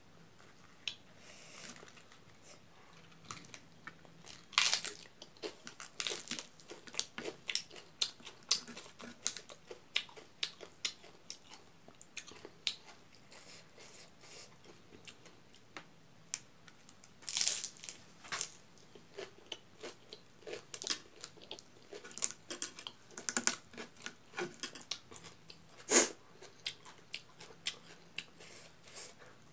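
Chewing and crunching of raw cabbage leaf wrapped around eromba, in many irregular crisp bites and mouth clicks. A few louder crunches stand out, the loudest near the end.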